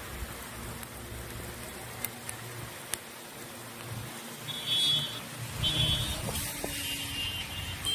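Road traffic on wet streets with steady vehicle noise. Short, high-pitched horn beeps sound several times in the second half.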